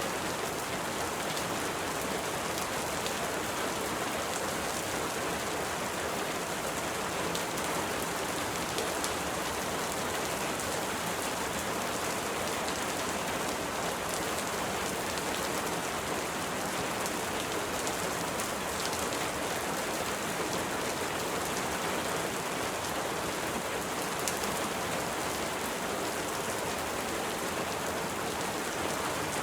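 Steady rain falling, a dense even hiss with fine drop ticks throughout.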